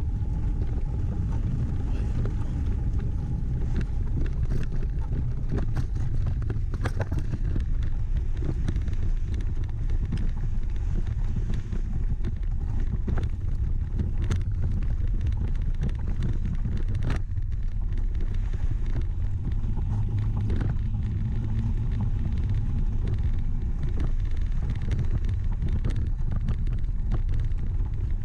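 A steady low rumble of wind on the microphone and a bicycle riding over a sandy trail, with scattered clicks and knocks from the bike.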